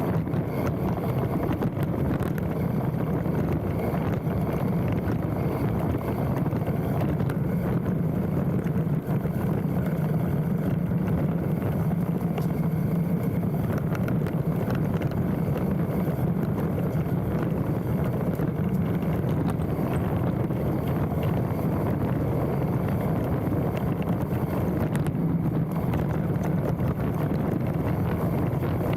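Specialized Stumpjumper mountain bike descending a dirt trail: steady wind rush on a handlebar-mounted microphone, with tyre rumble and scattered rattles and knocks from the bike over the ground.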